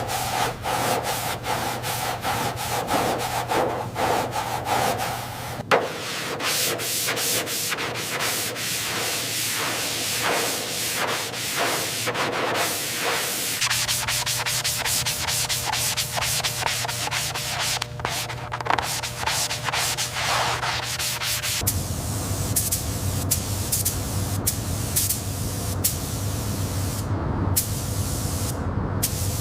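Sanding during car body work: rapid, repeated rubbing strokes. The sound changes abruptly three times, as separate short clips follow one another.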